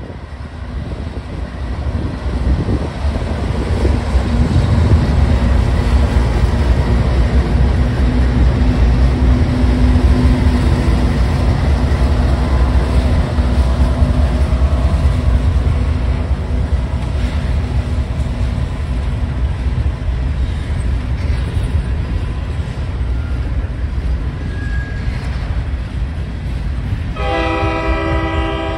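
Two CSX diesel locomotives passing close under power with a deep engine rumble, followed by empty covered grain hopper cars rolling by with wheel clatter on the rails. Near the end a train horn sounds a steady chord.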